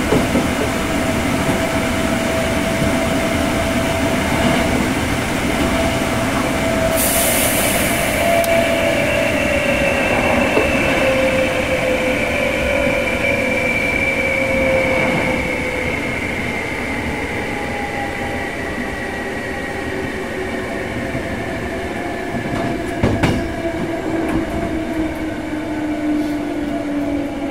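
Hankyu 6300 series electric train running, heard inside a passenger car: steady rolling noise of wheels on rail, with motor and gear whine gliding slowly down in pitch as the train slows. A brief hiss comes about a quarter of the way in, and a single knock late on.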